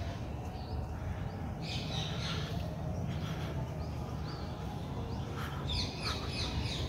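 Small birds chirping, quick high chirps coming in clusters about two seconds in and again near the end, over a steady low rumble.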